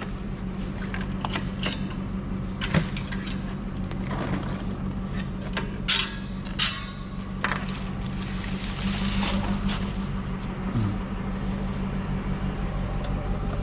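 Steady low hum of a running vehicle engine, with scattered knocks and clicks of scrap being handled. There is a sharp knock about three seconds in, then two loud clanks just over half a second apart about six seconds in.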